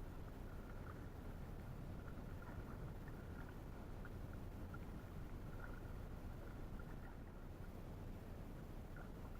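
Faint, steady rumble and hiss of an inflatable canoe moving on a river, with light short ticks scattered throughout.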